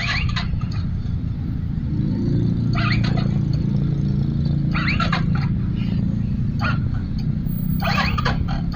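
Motorcycle engine idling steadily, with a dog barking in short bursts about five times over it.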